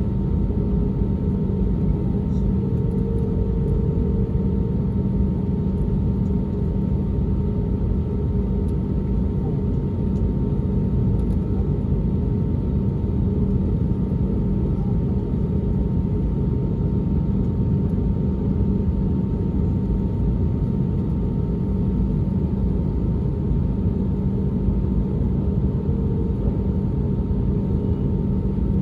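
Steady drone inside the cabin of an Airbus A320neo, its CFM LEAP-1A engines and the airflow heard from a window seat, with a few faint steady hums on top. The level does not change.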